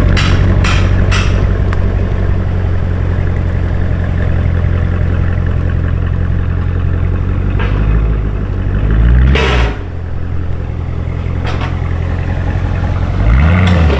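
Car engine idling steadily with a low hum, revved briefly twice, about nine seconds in and again near the end, each rev rising and falling in pitch.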